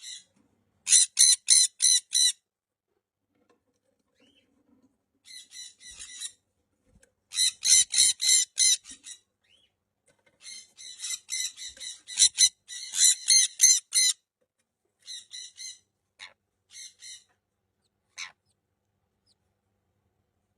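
Sun conure screeching: harsh, high-pitched squawks given in quick runs of several calls, about four or five a second, with quiet pauses between the runs. The loudest runs come near the start and in the middle, with a few softer, shorter calls near the end.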